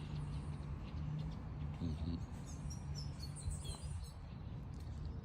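Birds chirping in short high calls, clustered about halfway through, over a steady low rumble of background noise.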